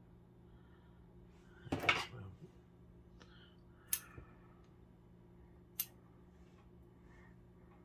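Scissors cutting lace trim: a louder rustling cut about two seconds in, then two single sharp snips a couple of seconds apart.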